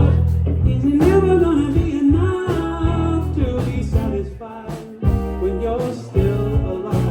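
Live rock band playing, with bass, electric guitar, drums and a singer's voice.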